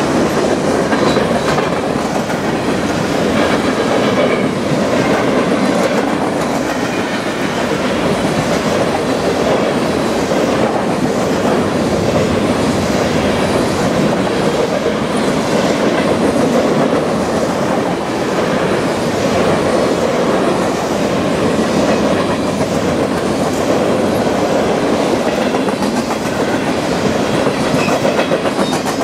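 Freight train of covered grain hopper cars rolling past close by: a steady, loud rumble of steel wheels on rail with a repeating clickety-clack as the wheel sets pass.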